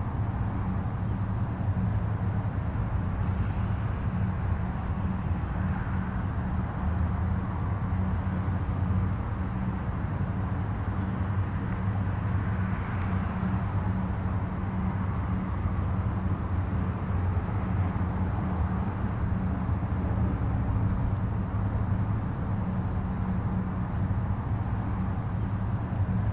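Distant highway traffic: a steady low rumble of tyres and engines, swelling gently a couple of times as vehicles pass. A faint, fast high pulsing runs underneath.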